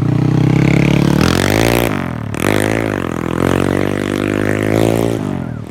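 Motorcycle with a Heng Suphan aftermarket exhaust pipe being revved: it runs steady at first, then the throttle is blipped, the pitch rising about a second in, dropping briefly near two seconds, rising again and held high before falling away near the end.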